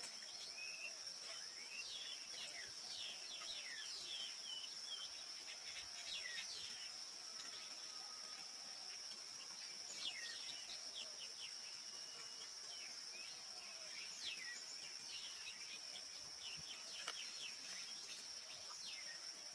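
Natural ambience: a steady high-pitched insect trill, cricket-like, runs throughout, with many short, quick downward-sweeping bird chirps scattered over it.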